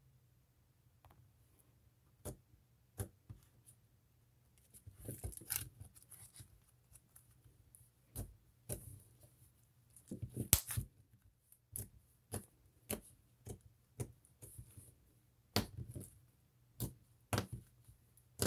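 Hands playing with homemade slime, giving irregular sharp pops and clicks, some in quick clusters, as it is poked and stretched.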